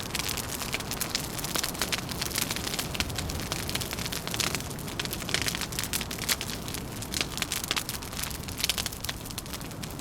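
Wood fire crackling, with many small sharp pops and snaps at irregular moments, over a steady low rumble of wind.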